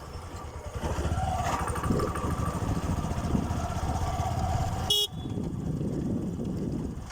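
Motorcycle engine and road rumble while riding, with a vehicle horn sounding as a steady tone from about a second in until about five seconds. The sound then breaks off with a sudden click and the engine rumble carries on.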